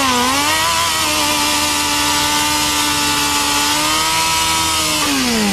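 Sportbike engine revved up hard and held at high revs, then winding down near the end.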